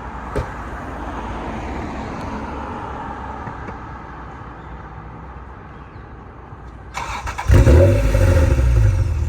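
First-generation Honda NSX V6 started up: after several seconds of steady background noise, the starter cranks briefly about seven seconds in, the engine catches with a loud flare through the exhaust, then settles into a steady idle.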